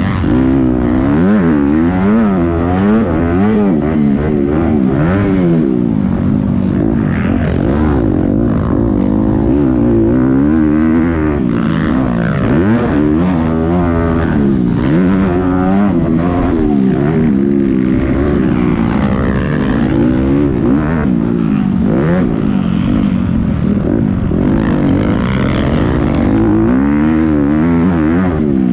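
Several motocross bikes' engines revving hard and continuously, their pitches rising and falling and overlapping as they race.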